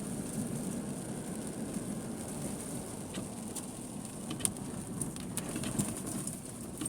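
Car driving over a potholed road in the rain, heard from inside the cabin: steady low road and engine noise with scattered light clicks and knocks.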